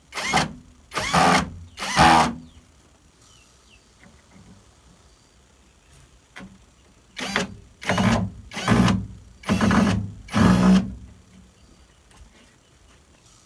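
A hand or power tool working in short strokes of about half a second: three strokes, then a pause of about five seconds, then five more strokes.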